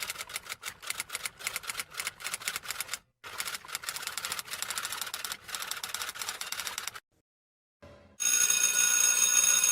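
Rapid, uneven mechanical clicking in two runs with a short break between them, then, after a second of silence, a loud, steady ringing bell starting about eight seconds in.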